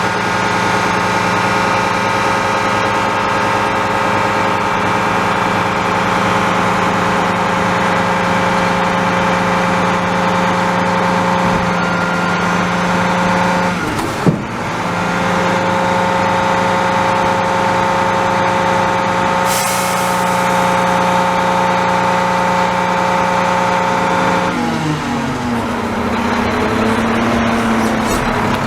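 Garbage truck diesel engine running steadily at raised speed, with one sharp bang about halfway through and a short hiss of air a few seconds later. Near the end the engine drops back toward idle, then picks up again.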